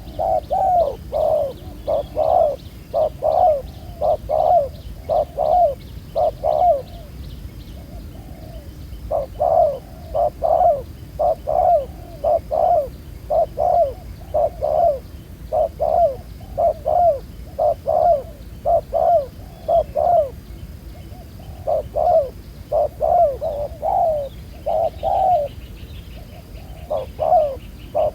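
Spotted doves cooing: rapid runs of low coo notes repeated almost continuously, with a few short pauses. A faint high-pitched chirping or trilling carries on behind them.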